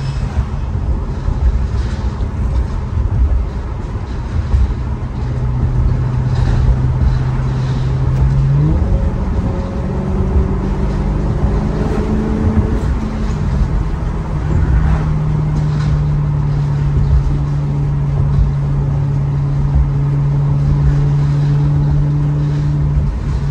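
Maserati GranTurismo V8 engine and exhaust while the car is driven: a steady drone over road rumble. The revs step up about nine seconds in, ease back down a few seconds later, then hold steady again.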